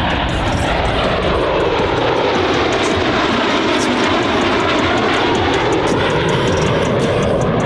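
Boeing EA-18G Growler's twin F414 turbofan jet engines on a low, fast show pass. The jet noise is loud and steady, its tone sweeping down and then back up as the aircraft passes.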